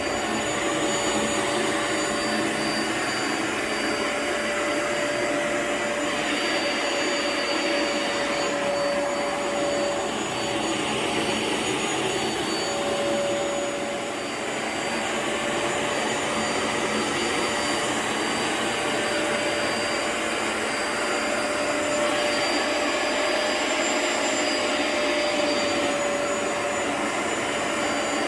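Vacuum motor running steadily as it is pushed over a rug: a continuous rushing noise with a steady whine, easing off slightly for a moment about halfway through.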